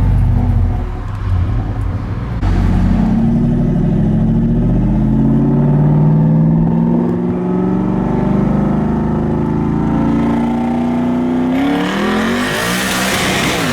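Twin-turbocharged Ford F-150 engine pulling hard under full acceleration, heard from inside the cab, its note climbing over several seconds. A loud hiss rises near the end.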